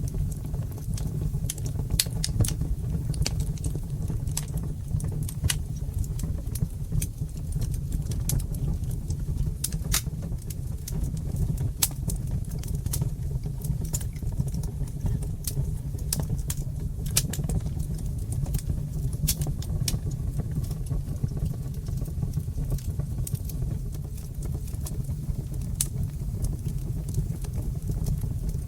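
Wood fire crackling: a steady low rumble of burning with frequent, irregular sharp pops and crackles.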